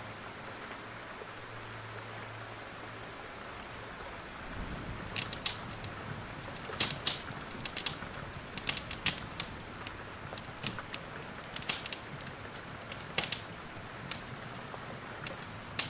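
Steady rain hiss with a wood fire crackling over it, giving irregular sharp pops and snaps that come more often from about five seconds in.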